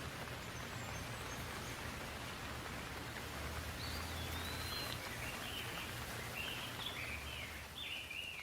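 Steady rain falling, an even hiss throughout. From about midway a bird chirps a run of short calls over it.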